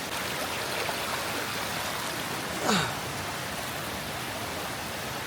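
Steady rush of a mountain stream's water below a waterfall. About two and a half seconds in, a brief sound sweeps quickly downward in pitch.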